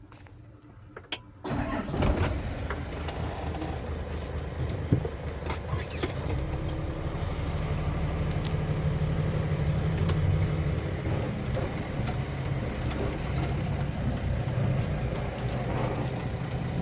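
A 10-ton pickup truck's diesel engine starting about a second and a half in, then running steadily with a low drone and scattered rattles.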